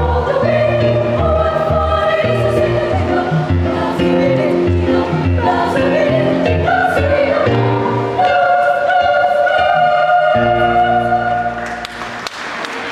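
Children's choir singing a Christmas carol, closing on a long held final chord; applause breaks out near the end.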